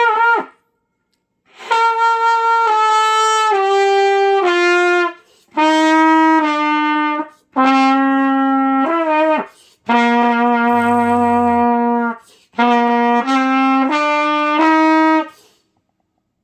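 Trumpet played by a learner, working through a descending scale: about five phrases of held notes stepping downward in pitch, with short pauses for breath between them.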